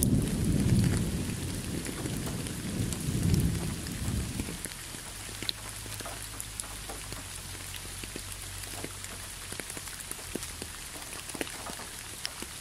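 Steady rain falling on a leafy road, with many small drops ticking. A low rumble of thunder fills the first few seconds and dies away about four and a half seconds in.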